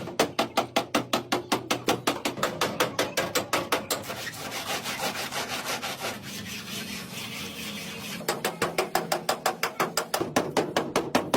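Quick, even back-and-forth scraping strokes, about five a second, of a hand tool worked over car body panel. In the middle they give way to a smoother, continuous rasp for a few seconds, then the quick strokes start again.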